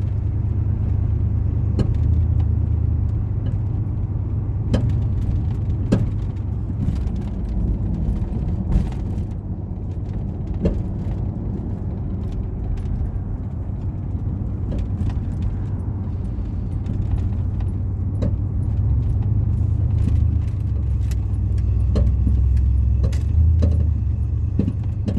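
Steady low road and engine rumble of a moving car, heard from inside the cabin, with scattered small clicks and rattles throughout.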